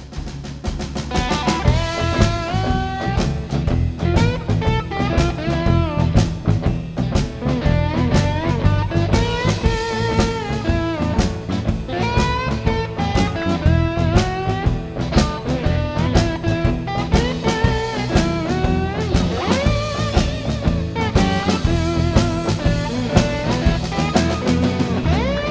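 Instrumental blues intro: electric slide guitar playing a lead line over bass and drum kit keeping a steady beat, with gliding notes from the slide.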